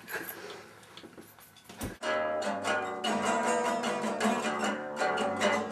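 Guitar music starting about two seconds in, after a faint, quiet opening.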